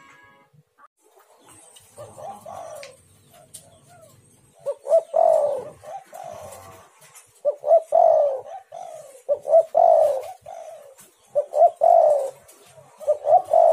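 Spotted dove (tekukur) cooing in repeated phrases, each a few short notes followed by a longer falling coo, about every one to two seconds from about two seconds in.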